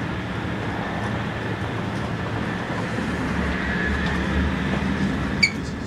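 Steady running noise of a Sapsan (Siemens Velaro RUS) high-speed train heard from inside: a low rumble under an even hiss. About five and a half seconds in, a single sharp metallic clink rings briefly.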